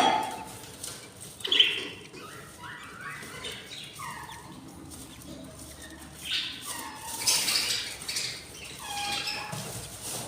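Budgies chirping in a string of short, bending calls, with small clicks and rustles among them. A sharp knock at the very start is the loudest sound.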